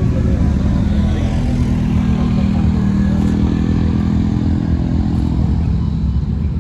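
A vehicle engine running close by, its steady low note strongest from about a second in until about five seconds, over a constant low rumble.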